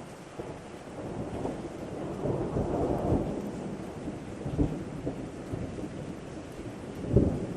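Thunder rumbling over steady rain, swelling about two to three seconds in and again, loudest, near the end.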